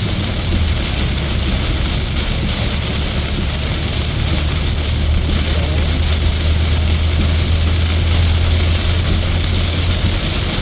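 Car cabin noise on a highway in heavy rain: a steady hiss of rain and spray on the car over a low drone from the engine and tyres.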